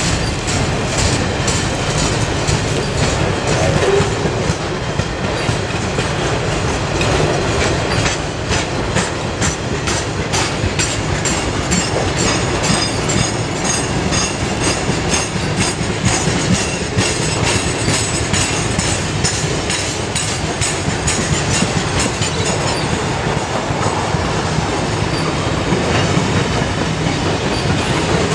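Freight wagons loaded with steel coils rolling slowly past close by, their wheels clacking steadily over the rail joints.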